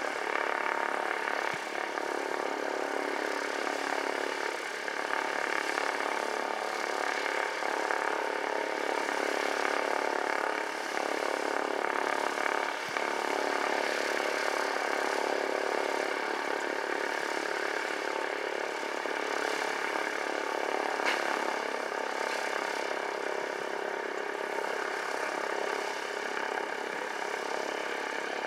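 Cessna 172's piston engine and propeller running steadily, a continuous many-toned drone that holds an even level throughout.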